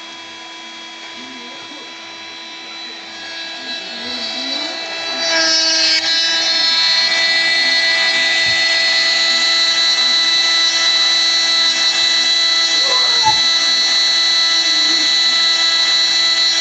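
Proxxon MF70 micro milling machine running under CNC, a motor whine with several steady high tones. It grows louder over the first five or six seconds, then runs steadily loud.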